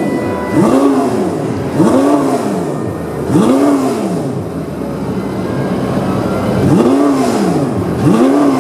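Porsche 918 Spyder's V8 engine blipped repeatedly: five quick revs, each rising and falling back to idle within about a second, with a pause of about three seconds between the third and fourth.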